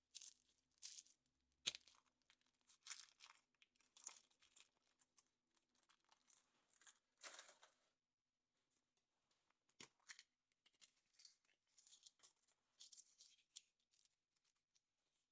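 Thin wrapper on a chocolate surprise egg crinkling and tearing in short bursts as it is pulled open by hand. A couple of sharp clicks fall between the bursts.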